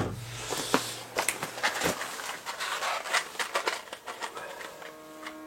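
Sharp, irregular clicks and knocks from handling at a tent wood stove being loaded and readied for lighting, with one loud knock at the start. Steady music comes in near the end.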